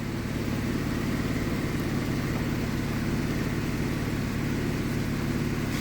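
Steady low mechanical drone of a running motor or engine, unchanging throughout, with a fluttering rumble underneath and a hiss above.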